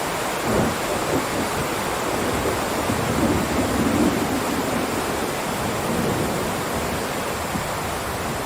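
Heavy rain downpour, a steady dense hiss, with a low rumble swelling up briefly about half a second in and more strongly around three to four seconds in.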